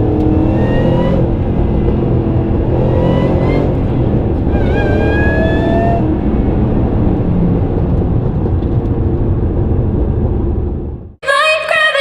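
Supercharged V8 of a modified 2012 Shelby GT500 accelerating hard through the gears, with three rising pulls carrying a loud supercharger whine over the exhaust. It cuts out suddenly near the end, and electronic music starts.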